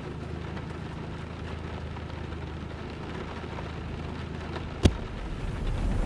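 Steady rain falling, over a constant low hum, with one sharp click about five seconds in.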